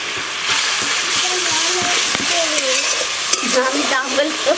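Masala of ground spices and ginger paste sizzling in hot oil in a kadai as a spatula stirs and fries it. The sizzle grows about half a second in, and sharper scraping ticks of the spatula against the pan come near the end.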